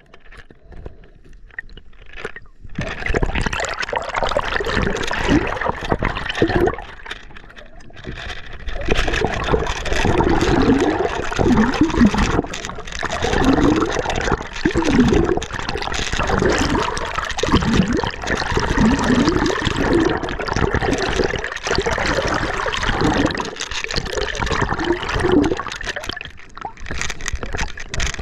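River water gurgling and sloshing close to the camera, starting about two and a half seconds in and then running loud and uneven.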